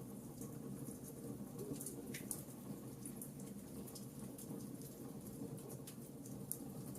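Campfire burning, with irregular small crackles and pops over a soft steady rumble of the flames.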